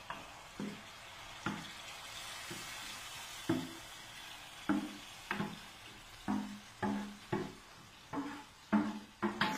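Chopped tomatoes scraped with a wooden spoon off an aluminium tray into a pot of frying onions, with a soft steady sizzle. From about three and a half seconds in, plucked guitar notes of background music come in, sounding at irregular intervals and growing closer together.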